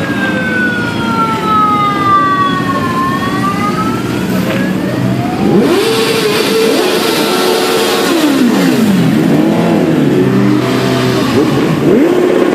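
Motorcycle engines revving and pulling away one after another from about five seconds in, their pitch rising and falling as they pass. Before that a siren wails, falling and then rising.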